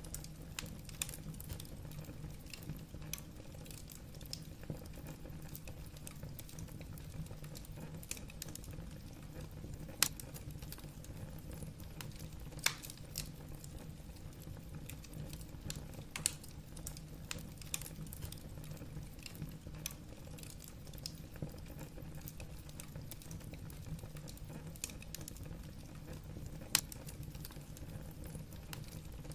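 Wood fire burning in a fireplace: a steady low rumble of flames with frequent small crackles and a few louder sharp pops of the burning logs, about 10, 13, 16 and 27 seconds in.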